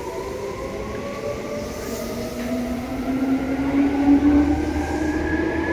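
Seibu 2000 series electric commuter train running, heard from on board. Its motor and gear whine climbs steadily in pitch as the train gathers speed, over a low rumble that grows stronger about four seconds in.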